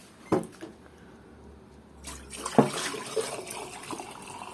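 Hot water poured onto the ice build-up in a freezer, splashing and trickling down into a pot underneath; the splashing starts about two seconds in. A sharp knock sounds just after the start and another soon after the pouring begins.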